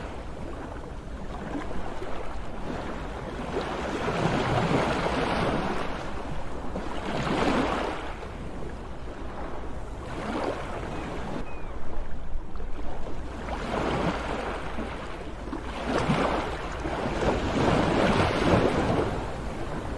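Sea waves breaking and washing up the shore, the rush swelling and fading every few seconds, over a steady low rumble.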